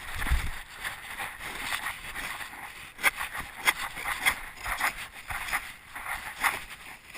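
1/8-scale RC monster truck driving over rough ground: an irregular clatter of rattles and crunches with no steady motor tone.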